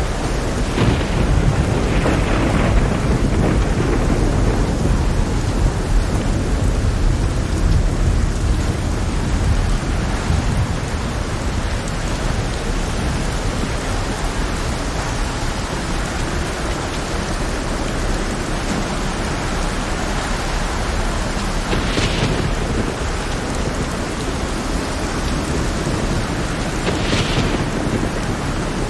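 Heavy rain pouring steadily under rolling thunder, the low rumble strongest in the first ten seconds or so. Two brief, sharper bursts come later on.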